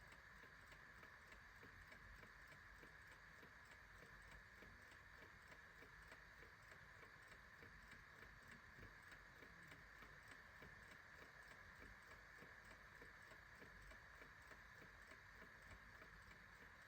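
Faint, steady ticking of a clock, even regular ticks over a low steady hiss.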